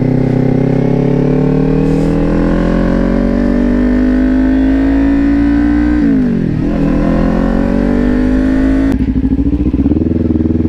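Kawasaki Ninja 400 parallel-twin engine pulling under way, its pitch climbing slowly. About six seconds in the pitch drops sharply and climbs back, and it changes again near the end.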